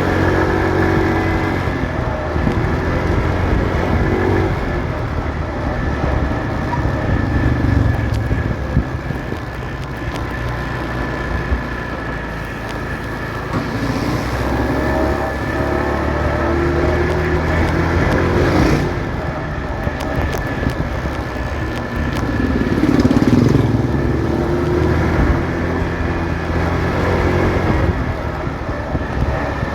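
Motorcycle engine running while riding through city traffic, its pitch rising and falling with the throttle, over road noise and the sound of other vehicles around it.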